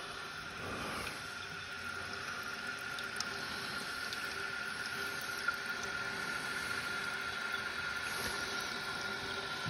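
Newly installed toilet fill valve hissing steadily as water refills the tank, with a thin steady whistle-like tone through the hiss.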